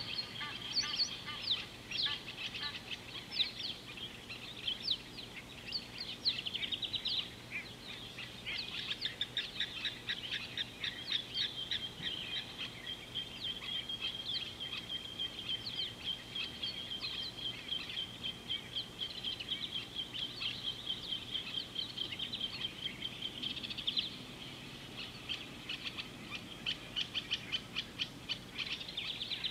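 Several wild birds chirping in quick, repeated high notes, with a steady high trill running for about ten seconds in the middle.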